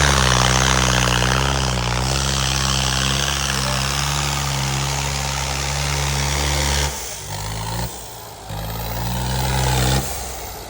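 John Deere tractor's diesel engine running hard under load, pulling a harrow, with a steady, even note for about seven seconds. After that the sound drops in loudness twice, briefly, and the engine note comes back weaker in between.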